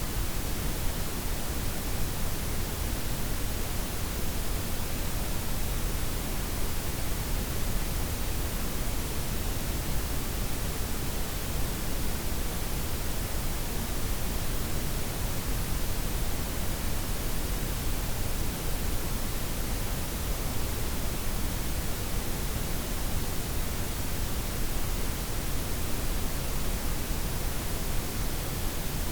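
Steady synthetic noise, a blend of white, pink and brown noise with the highs softened: an even hiss, heaviest in the low end.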